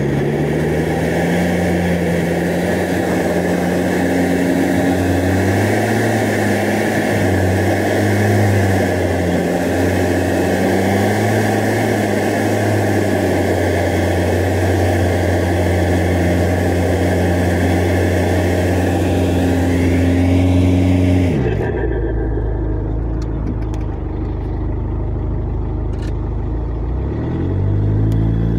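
Off-road SUV engine running under load, its pitch wavering as the throttle changes, over a steady rushing noise. About three quarters of the way in, the revs fall away sharply and the rushing stops. Near the end the revs climb again.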